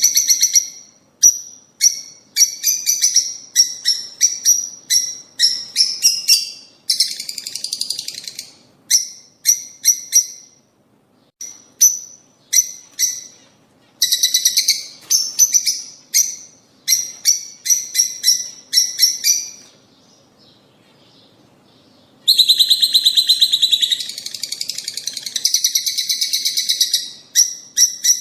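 Lovebirds chattering: quick runs of sharp, high chirps broken by several harsher, buzzing bursts of chatter, with a lull of about two seconds a little past the middle.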